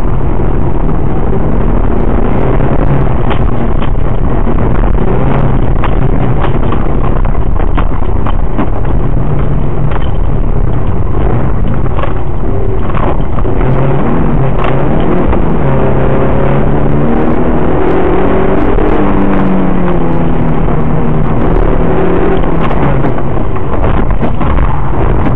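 BMW E36 318is four-cylinder engine heard from inside the cabin, driven hard, its pitch rising and falling repeatedly with throttle and gear changes, most clearly in the second half. Road and tyre noise and frequent short knocks and rattles run underneath.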